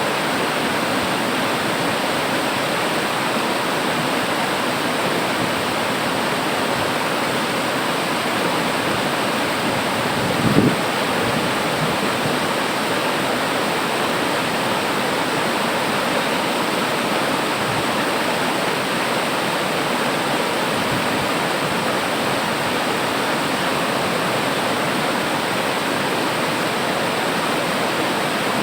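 Waterfall water rushing and splashing in a steady, even roar. A brief low thump sounds about a third of the way in.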